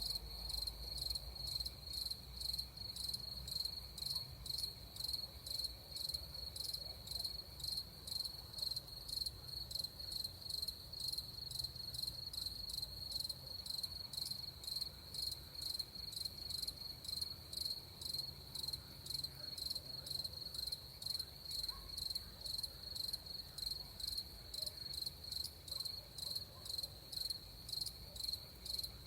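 Crickets chirping in a steady, even pulse, about two chirps a second.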